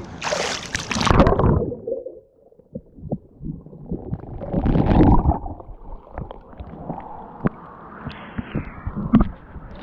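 Water splashing in a swimming pool for the first second or so, then muffled gurgling and sloshing with scattered small knocks.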